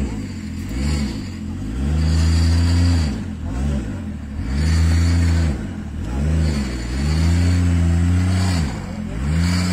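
Off-road 4x4's engine revved hard again and again, the pitch rising and falling with each rev: quick blips between three longer held revs, as the vehicle works to climb a steep mud bank.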